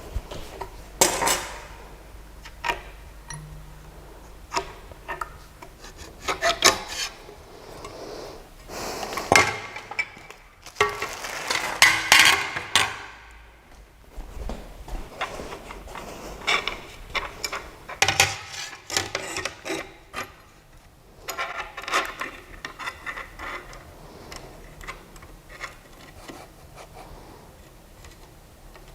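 Irregular rubbing and scraping with scattered clicks and knocks, as of parts and material being handled by hand on a small machine.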